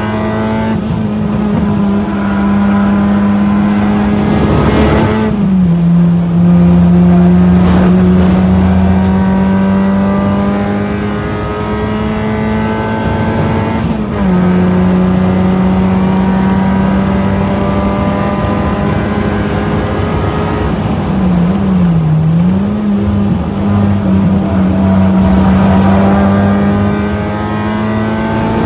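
Honda Civic hatchback's engine at full throttle on a race track, heard from inside the cabin. Its pitch climbs through the gears with two upshifts, one about five seconds in and one near the middle. It then drops as the car brakes for a corner with downshifts, and rises again near the end. Steady tyre and wind noise runs underneath.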